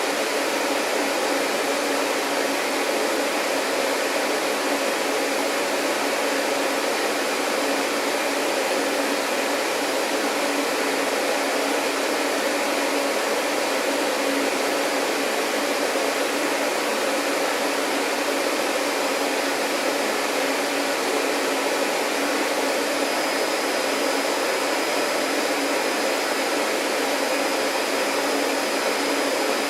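Vacuum cleaner running steadily: an even rushing noise with a faint hum, and a thin high whistle joining about two-thirds of the way through.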